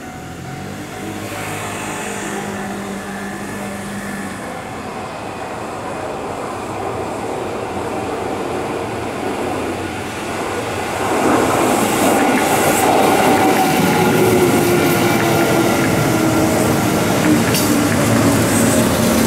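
Kintetsu limited express electric train approaching and running past close by. Its rumble grows slowly, then rises sharply about eleven seconds in as the cars go by, with a whine falling in pitch and a few sharp clicks of wheels over the rails.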